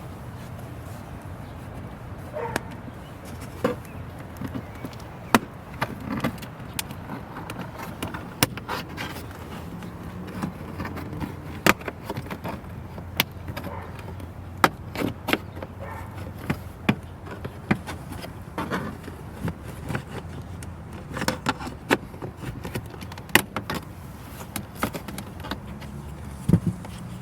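Plastic dashboard side trim panel being pried off its clips, giving many scattered sharp clicks and plastic knocks over a steady low hum.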